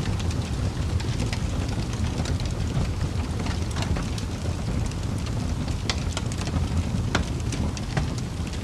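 Wood fire burning in a fireplace: a low steady rumble of the flames with irregular sharp crackles and pops from the burning logs, several a second.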